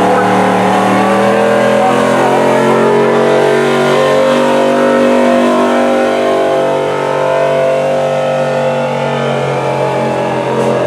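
Pickup truck engine at high revs, pulling a weight sled. The pitch climbs slowly for the first few seconds and then holds steady, dipping slightly about seven seconds in.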